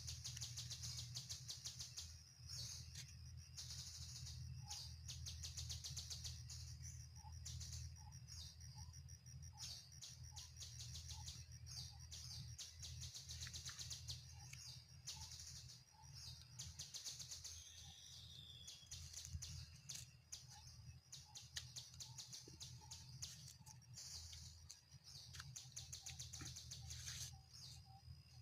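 Small birds chirping and trilling in rapid high notes, with fainter short calls lower in pitch between them. A steady low hum runs underneath.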